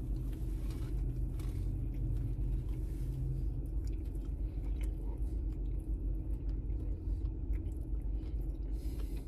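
A man biting into a burger and chewing it, over a steady low rumble inside a car.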